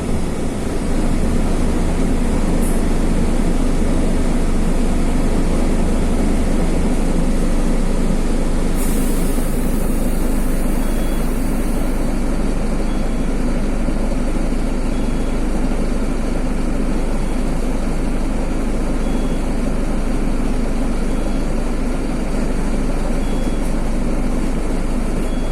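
Mercedes-Benz OF-1519 bus's OM-924 LA four-cylinder turbodiesel running steadily. About nine seconds in there is a brief hiss of air, and faint short beeps sound every couple of seconds after it.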